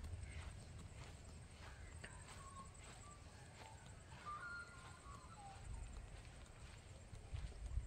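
Faint birds calling in short, thin whistled chirps, mostly in the middle stretch, over a steady low wind rumble on the microphone and soft repeated footstep clicks.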